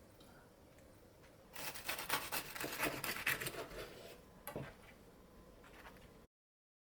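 Kitchen food-prep handling: about two and a half seconds of crisp rustling and crackling, then a single sharp tap, before the sound cuts to dead silence near the end.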